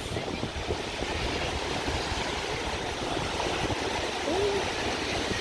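Strong wind buffeting the microphone with an irregular low rumble, over a steady hiss of surf.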